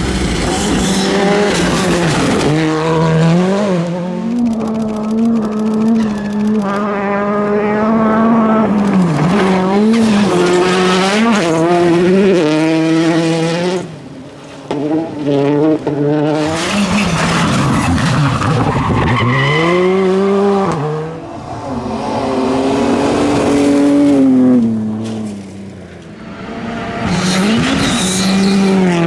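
Rally cars driven hard through a stage in a string of short passes. The engines rev up and drop back through quick gear changes, with tyre and loose-surface noise from the sliding cars. There are two brief quieter dips, about halfway through and near the end.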